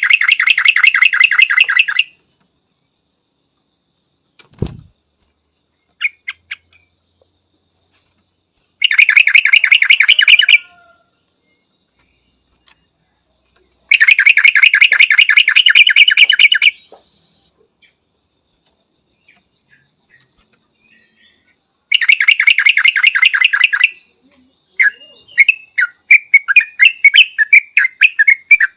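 Yellow-vented bulbul calling: four bursts of rapid, evenly repeated chattering notes, about ten a second, each lasting two to three seconds with pauses between. Near the end come looser, irregular chirps.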